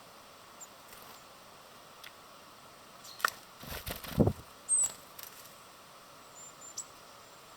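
Small birds at a feeder: a short flurry of wing flaps and scuffling about halfway through, with a few brief high chirps, over a steady background hiss.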